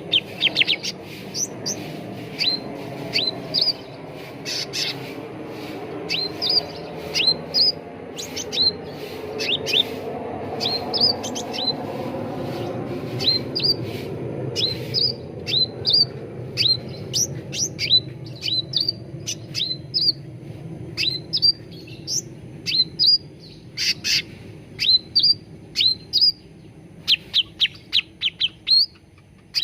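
Cucak ranting songbird calling: a rapid, steady stream of short, sharp chirps, each note sweeping downward, over a constant low background hum.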